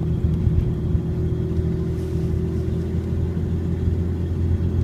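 Steady low hum of a car's engine and road noise heard from inside the moving vehicle.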